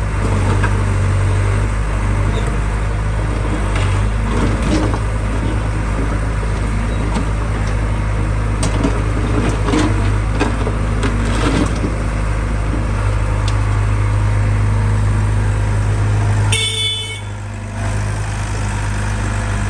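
Heavy vehicle engine running steadily, with scattered knocks, and a brief horn toot about 17 seconds in, after which the engine is quieter.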